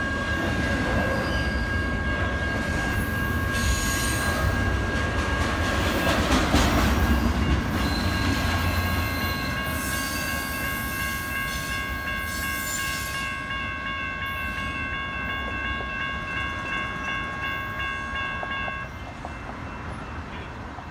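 The last cars of a double-stack intermodal freight train run past over a grade crossing, a heavy wheel noise that peaks partway through and fades after about eight seconds. Over it the crossing's warning bells ring steadily, one tone pulsing, and they cut off suddenly near the end.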